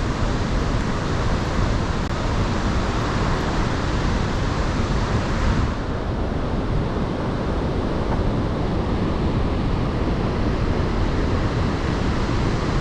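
Iguazu Falls' cascades: a loud, steady rush of falling water, its hiss dimming a little about six seconds in.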